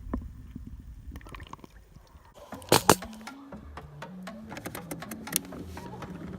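Handling noises from the angler working in the jon boat: scattered small clicks and rattles, then two sharp knocks close together about two and a half seconds in, followed by a low steady hum.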